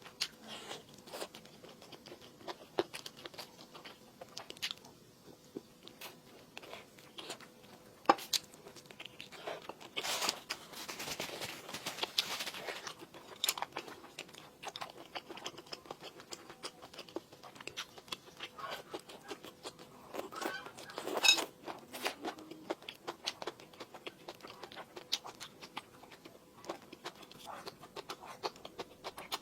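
A person eating close to the microphone: wet chewing, crunching and tearing of food, with many small clicks. There is a longer, denser stretch of crunching about ten seconds in and the loudest crunch a little after twenty seconds.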